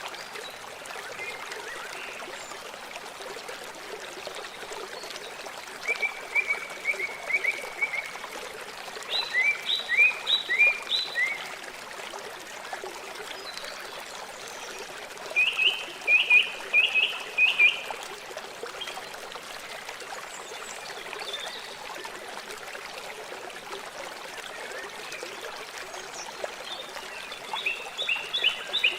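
River water flowing steadily, with several short runs of high, quickly repeated chirping calls from a small animal standing out above the rush of the water.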